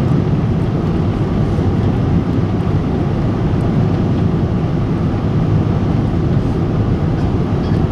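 Steady cabin noise inside a Boeing 777-300 airliner: an even, deep rumble of engines and airflow.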